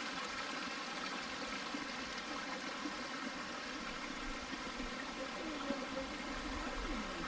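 A low-flowing creek running with a steady, even rush of water.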